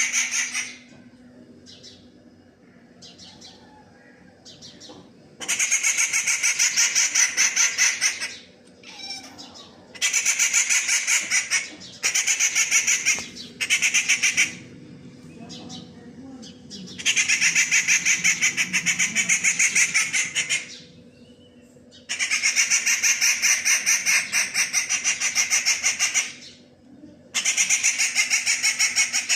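A bird's harsh, rapid rattling chatter, given in repeated bouts of two to four seconds with short pauses between them.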